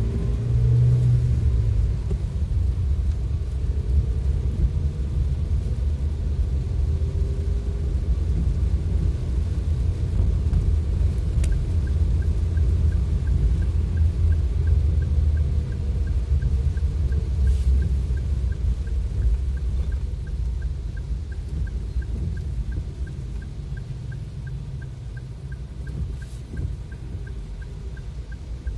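Vehicle driving through heavy rain: a steady low rumble of road and rain noise. From about halfway through, a light, regular ticking runs at roughly two or three ticks a second.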